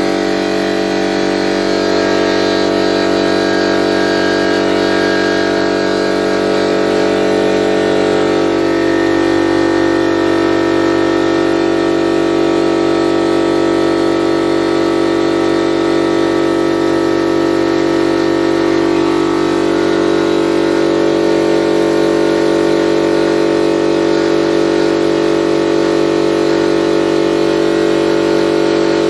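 50-litre ALDI air compressor's electric motor and pump running steadily, filling the tank and building pressure toward its cut-off.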